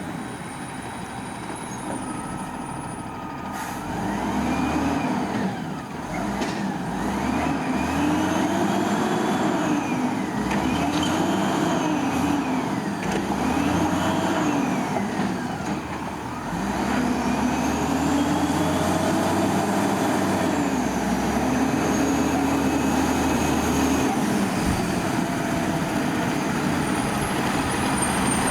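Diesel engine of a Peterbilt 320 Amrep Octo garbage truck revving up and falling back again and again, about six rises and falls, after a calmer first few seconds.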